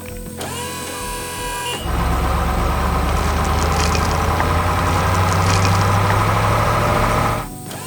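Heavy truck engine sound effect: a short pitched tone, then about two seconds in a loud, steady, deep engine rumble that cuts off sharply near the end.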